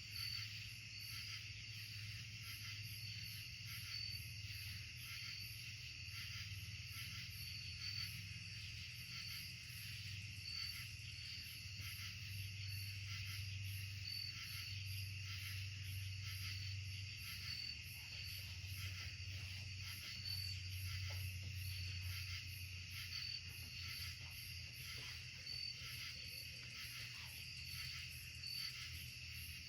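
Night insect chorus, crickets and similar insects trilling steadily, with a high chirp repeating every second or two, over a faint low hum.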